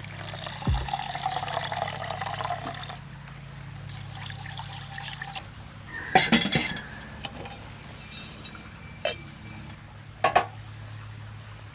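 Liquid being poured into a vessel for a few seconds, followed by a sharp clink of glass or crockery about six seconds in and two lighter knocks later.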